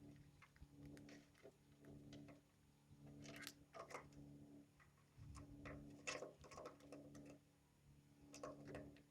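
Lovebirds' beaks cracking and picking at seed, faint irregular clicks, a few louder ones about a third of the way in and again past the middle, over a faint low hum that comes and goes.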